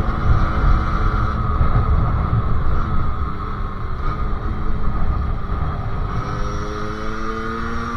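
Sherco SM-R 50cc two-stroke engine with a KRM exhaust running under way, with wind buffeting the microphone. The engine pitch climbs steadily over the last couple of seconds as it speeds up.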